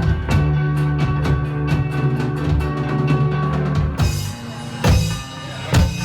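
Live rock band playing an instrumental passage: bass and guitars held under a steady drum-kit beat. About four seconds in the band thins out and the drum kit plays two loud accented hits, then the full band comes back in.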